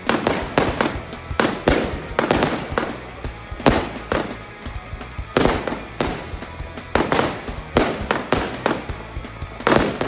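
Firework display: shells and cakes going off in a rapid, uneven string of sharp bangs, each trailing off briefly, over rock background music.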